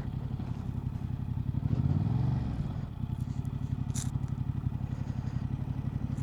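Motorcycle engine running at low revs, briefly rising and falling in pitch about two seconds in. A sharp click about four seconds in.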